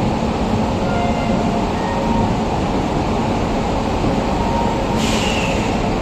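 Passenger coaches of an arriving express train rolling slowly past, a steady rumble of wheels on the rails. A brief high hiss comes about five seconds in.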